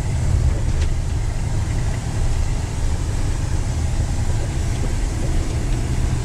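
Truck engine heard from inside the cab on a downhill run with the exhaust brake switched on: a steady low rumble.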